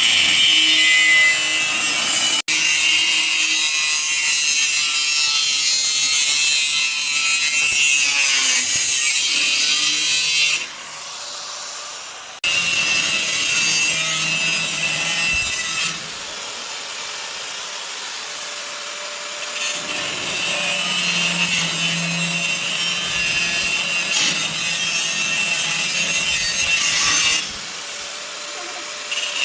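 Power tool cutting into material in long, loud runs. It eases off briefly about eleven seconds in, for a few seconds around the middle, and again near the end.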